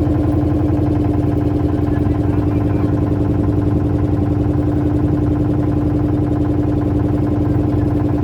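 Motorboat engine running steadily at a constant speed, with a fast, even pulsing and a steady hum.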